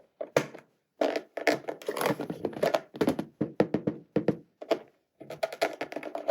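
Hands handling plastic toy pieces and packaging: a quick run of light clicks, taps and knocks, with short pauses between clusters.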